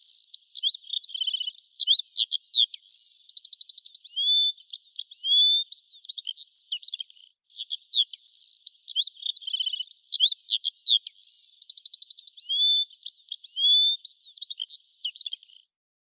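Birdsong: a fast, varied run of high chirps, rapid trills and rising whistles. The same sequence of phrases plays twice over, with a short break between the two, and it cuts off abruptly near the end.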